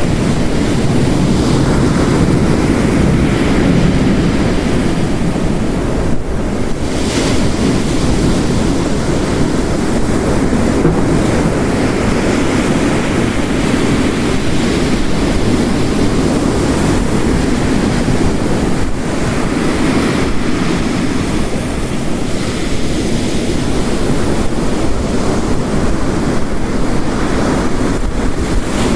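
Layered storm ambience: ocean surf breaking on a rocky coast mixed with heavy rain, a loud, steady wash of noise strongest in the low end.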